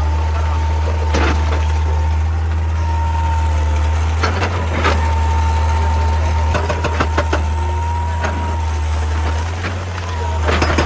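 Excavator diesel engine running steadily under a thin, steady high whine, with scattered sharp knocks and clatter about a second in, around four to five seconds in, through the middle, and near the end.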